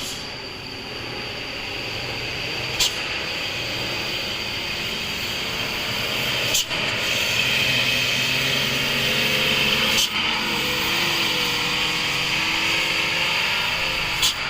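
Overloaded dump truck creeping down a steep descent, its brakes giving a steady high-pitched squeal over a hiss that gets louder about halfway through, with the engine running underneath. Four short sharp clicks come at intervals of three to four seconds.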